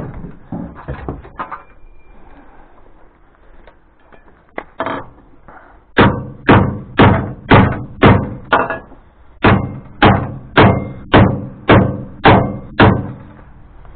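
Hammer blows on a steel pipe being bent for a fence brace: a few light taps, then about thirteen hard, even strikes at roughly two a second, each ringing briefly, with a short pause midway.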